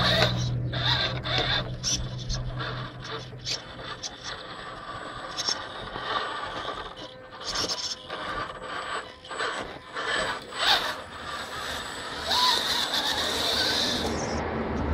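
Radio-controlled SCX10 scale crawler truck's electric motor and gearbox whining in stop-and-go bursts, with clicks and scraping as it crawls over the terrain.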